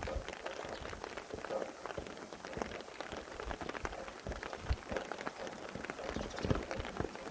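Steady rain, with many separate drops striking close by over a continuous hiss of rainfall.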